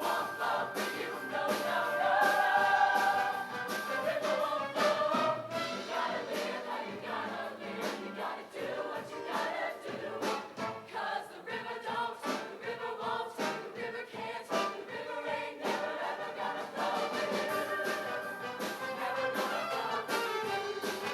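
Show choir singing in harmony over a live band, with held chords early on and a percussive beat underneath.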